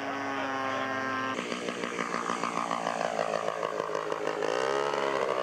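Model-airplane engine of a radio-controlled scale plane in flight, a buzzing two-stroke-like note. The sound changes abruptly about a second and a half in, then its pitch sinks for a few seconds and climbs again near the end.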